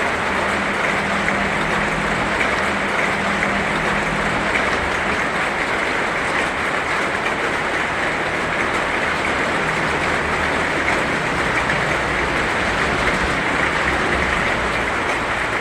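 Heavy rain falling steadily, an even continuous hiss with no breaks.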